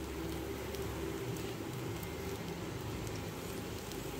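Breadcrumb-coated sweet potato cutlets shallow-frying in a little oil in a pan: a steady, soft sizzle with a few faint pops.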